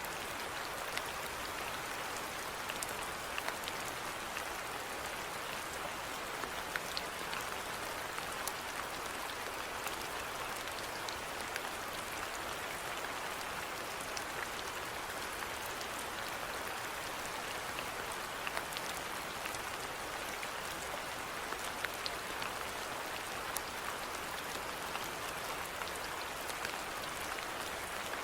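Steady rainfall: an even hiss with scattered sharper drop ticks throughout.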